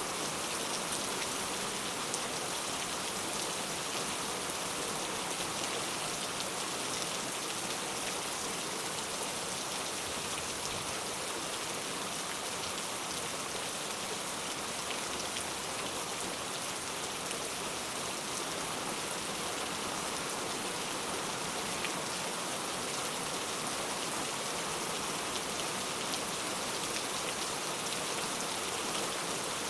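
Steady rain falling, an even hiss of many drops with faint scattered patters, unchanging throughout.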